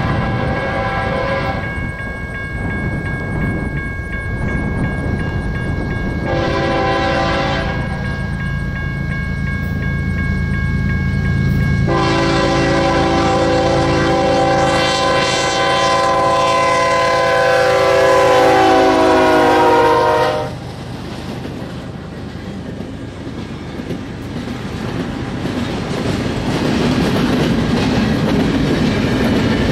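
Freight locomotive's air horn sounds: one blast ends just after the start, a short blast follows, then a long blast held about eight seconds whose pitch dips near its end as the locomotive comes by. Under the horn the train rumbles steadily. Once the horn stops, the freight cars roll past with a rumble and clickety-clack of wheels over the rail joints.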